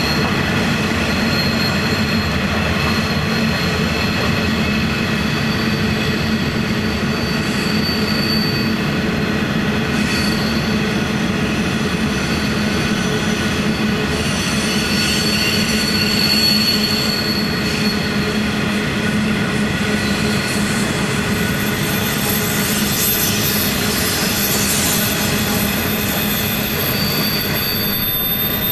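Empty steel ore wagons of a long freight train rolling steadily past at close range. The wheels squeal continuously in several high steady tones, which grow louder for a few seconds about halfway through and again later.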